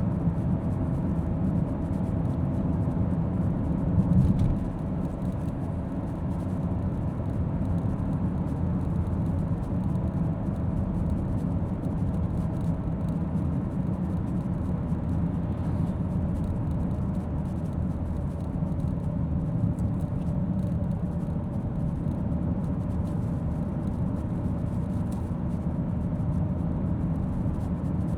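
Car driving on the road: a steady low rumble of tyres and engine, with one brief thump about four seconds in.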